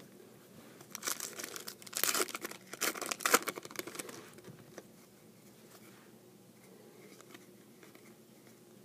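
Trading-card pack wrapper being torn open and crinkled, a burst of crackling from about one to four seconds in, then only faint handling.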